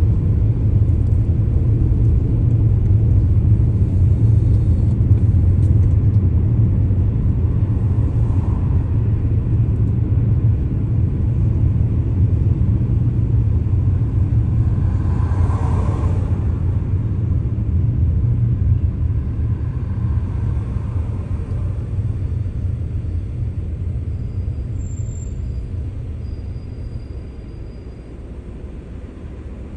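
Car on the move: a steady low rumble of engine and road noise that slowly fades over the last ten seconds or so.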